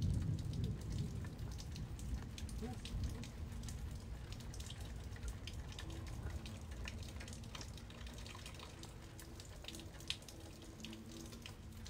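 Rain falling at night, with scattered drops pattering and dripping close by. A low rumble fades away over the first couple of seconds.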